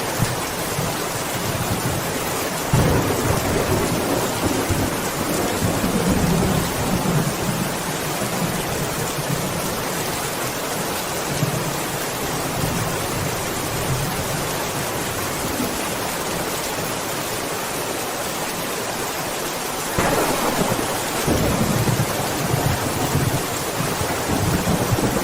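Steady rain with rolling thunder: a long low rumble starts about three seconds in and dies away over several seconds, and another rolls in about twenty seconds in.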